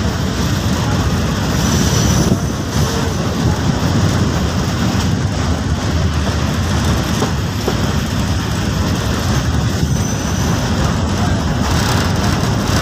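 Passenger train coach running along the rails, heard from its open doorway: a steady, loud rumble and rattle of wheels on track.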